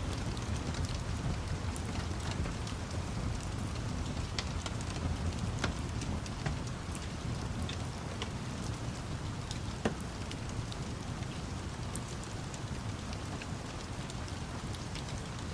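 Steady rain with a low continuous rumble of thunder, and scattered crackles and pops from a wood fire; one louder pop comes about two-thirds of the way through.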